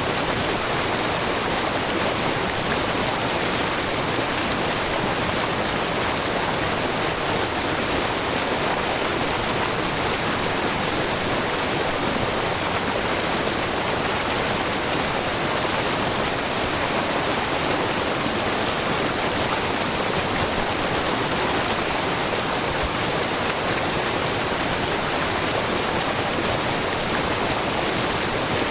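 A wide, low waterfall of spring water pouring over rock, a steady, even rush of falling water.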